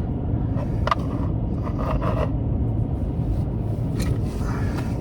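Steady low rumble of a car running with its heater on, heard from inside the cabin, with a few sharp clicks and short scrapes from gear being handled.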